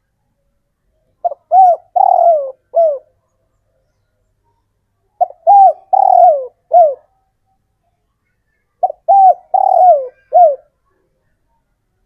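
Male spotted dove cooing its advertising call to attract females. It gives three phrases about three and a half seconds apart, starting a little over a second in. Each phrase is a quick short note, a coo, a longer drawn-out coo that falls at the end, and a final short coo.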